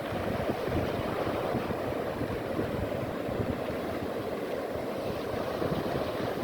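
Black Sea waves washing on the shore in a steady rushing wash, with wind on the microphone.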